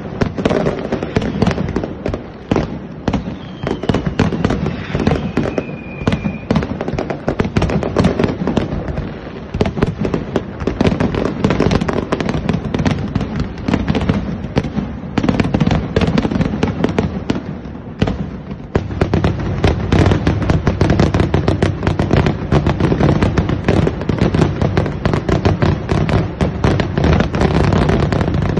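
Fireworks finale barrage: shells bursting in rapid, overlapping bangs and crackles. After a short lull about two-thirds through, it becomes denser and more continuous. A faint falling whistle comes a few seconds in.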